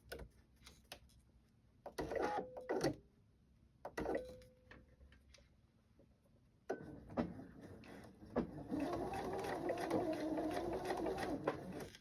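Domestic sewing machine stitching a paper-pieced seam. It runs in two short bursts, then sews steadily for the last five seconds with a wavering motor hum.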